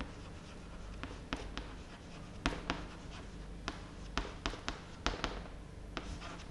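Writing on a board by hand, a faint scratching broken by irregular sharp taps as the writing tool strikes the surface.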